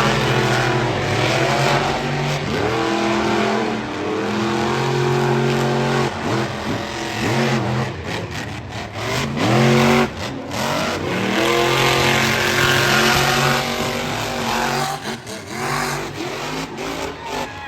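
Monster truck engines revving hard at full throttle during a race. The pitch climbs again and again as they accelerate, with the loudest surge about ten seconds in.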